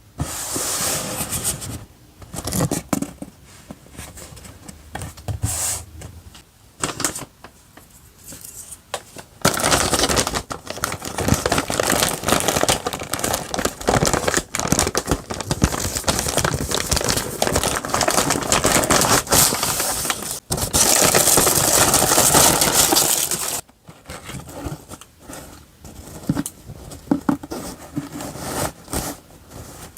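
Paper and plastic packaging being handled and torn open during an unboxing: irregular rustles and small clicks, then a long stretch of continuous crinkling from about ten seconds in that stops abruptly near the end.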